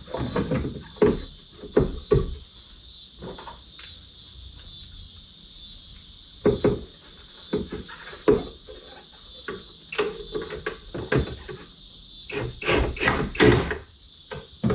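Scattered light clicks and knocks from handling a 3rd-gen Toyota 4Runner's tail light housing and its brake light bulb sockets, over a steady high hiss. The clicks come in clusters, busiest near the start and in the last few seconds.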